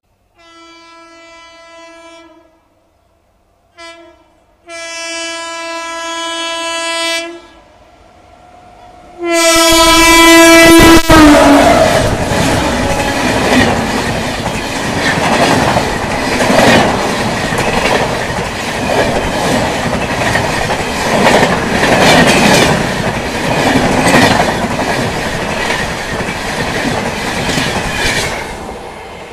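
An Indian Railways locomotive horn sounds four times as an express approaches at speed: a blast of about two seconds, a short toot, a longer blast, then a loud blast as the locomotive reaches the listener about nine seconds in. The passenger coaches then rush past close by, wheels clattering rapidly over the rail joints, until the train clears and the sound fades near the end.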